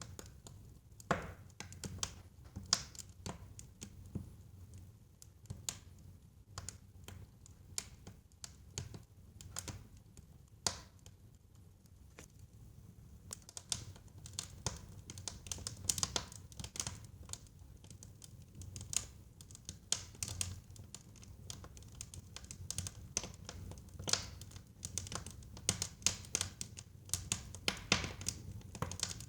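Wood fire burning in a fireplace: irregular crackles and pops of burning wood over a soft low rumble of flame, with a brief lull in the middle and denser crackling toward the end.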